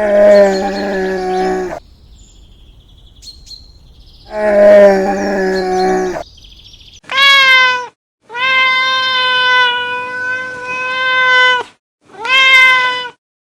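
Domestic cat meowing: five calls, two lower ones and then three higher, steadier ones, the middle of these drawn out for about three seconds.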